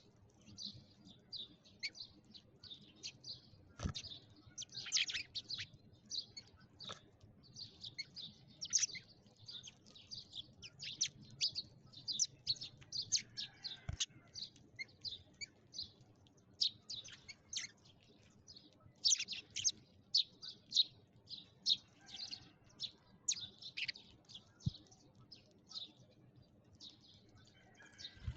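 Sparrows chirping: many short, high chirps, several birds overlapping with hardly a pause. A few soft knocks come through now and then.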